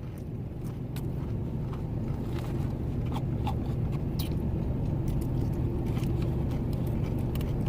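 Steady low rumble of a truck's engine running, heard from inside the cab, with a few faint clicks.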